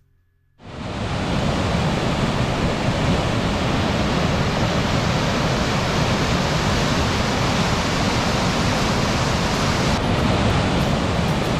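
Steady roar of rushing water, likely rain-swollen, cutting in abruptly about half a second in.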